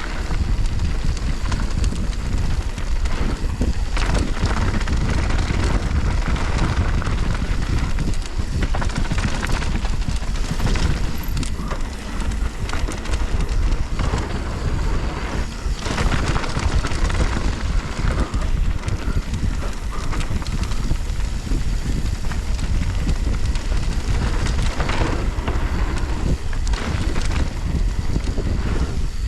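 Mountain bike riding down a dirt bike-park trail: wind noise on the camera's microphone over steady tyre rumble, with frequent short clatters and knocks from the bike over bumps.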